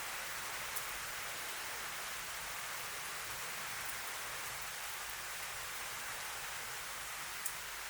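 Steady rain falling with an even hiss, a few sharp drop ticks standing out, the loudest about seven and a half seconds in.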